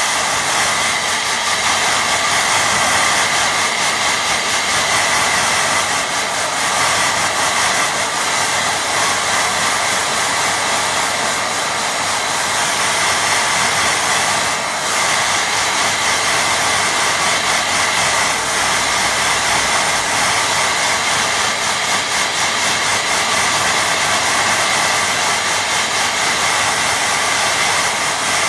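Hair dryer blowing steadily, drying wet watercolour paint.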